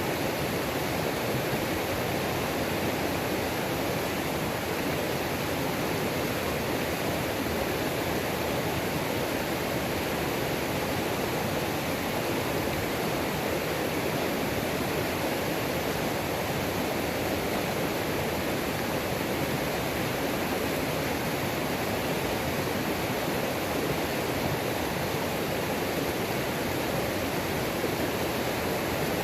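Waterfall on a mountain creek: a steady, even rush of falling and tumbling water with no change.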